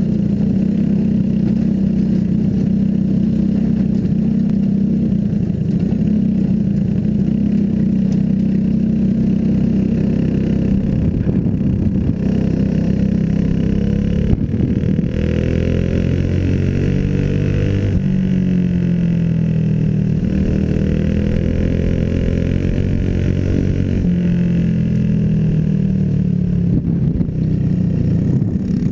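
Small single-cylinder clone racing engines running hard at high revs. The note is steady at first; from about halfway on the pitch repeatedly dips and climbs as the throttle is lifted and reopened for the turns.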